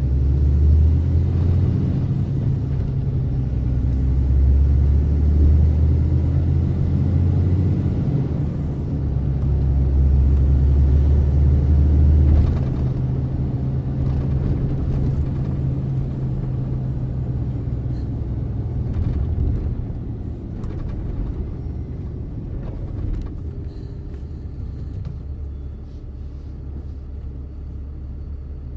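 Truck engine and road rumble while driving: a steady low drone, strongest in the first half, that drops back about halfway through and eases lower toward the end.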